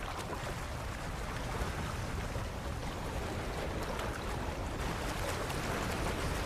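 Steady rushing of wind and churning water, of the kind heard from a waterspout over open water, with no clear pitch and no separate knocks.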